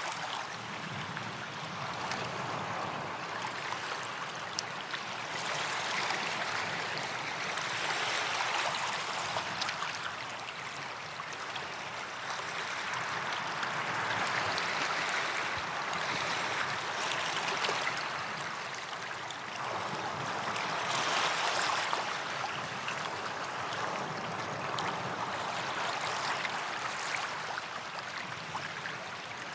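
Small waves washing onto a sandy beach, a steady hiss of water that swells and eases every few seconds as each wave comes in and draws back.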